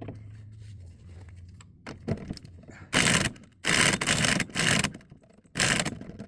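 Impact wrench hammering in four short bursts, spinning the nut of a bearing press used to seat a new wheel bearing and hub.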